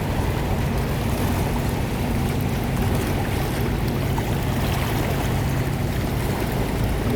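Boat engine running steadily with a low drone, over a constant wash of water and wind noise.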